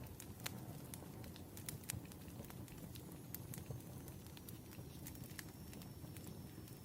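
Pen writing on paper, heard as faint, irregular small scratches and ticks.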